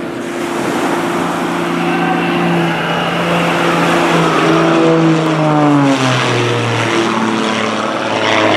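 CAP 231 aerobatic plane's propeller engine droning as it flies past, its pitch sliding down about five to six seconds in and holding lower after.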